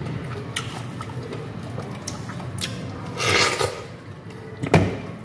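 Close-up chewing of juicy fresh pineapple: wet squishing and smacking sounds, with scattered clicks and a louder wet snap near the end as a chunk is torn off the fruit.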